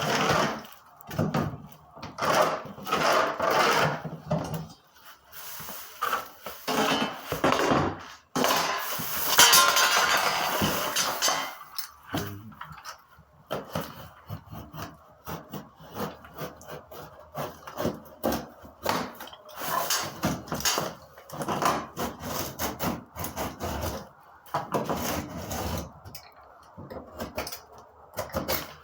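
Utility knife scoring drywall over and over: a long run of short scraping strokes through the sheetrock, with one longer, louder scrape about nine to eleven seconds in.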